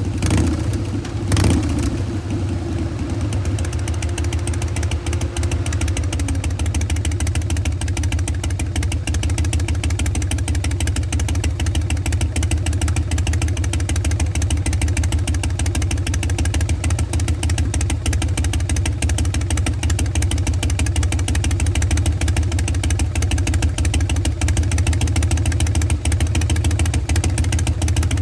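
2014 Harley-Davidson Breakout's Twin Cam 103 V-twin idling through a Bassani Pro Street turnout exhaust, a steady, even pulsing lope of the kind called a three-beat (sanbyoshi) idle. A short sharp sound stands out about a second in.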